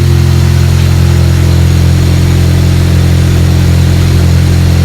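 MK7 Golf 1.8 TSI turbocharged four-cylinder engine idling with only the downpipe fitted and no muffler, so the exhaust is open. It runs really loud as a steady, deep drone with no revving.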